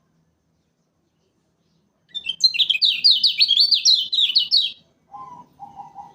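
Kecial kuning (a Lombok white-eye) singing a fast, loud burst of about ten high, down-slurred chirping notes lasting nearly three seconds, starting about two seconds in. Near the end come two short, lower-pitched calls.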